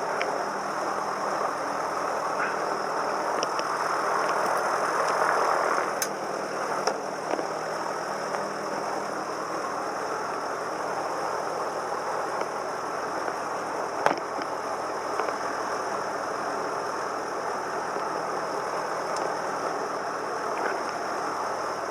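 Cessna 172M's four-cylinder Lycoming engine and propeller running steadily in flight, heard inside the cabin, a little louder for the first six seconds. A single sharp click about fourteen seconds in.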